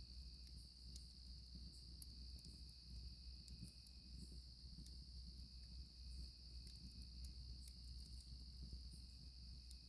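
Faint, steady high-pitched trilling of a chorus of crickets, over scattered small ticks and pops from a crackling campfire, with one sharper pop about two seconds in.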